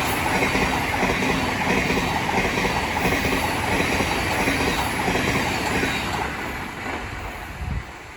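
Thameslink Class 700 electric multiple unit passing through the station, its wheels clattering over the rail joints. The noise holds steady for about six seconds, then dies away as the train leaves, with a brief thump near the end.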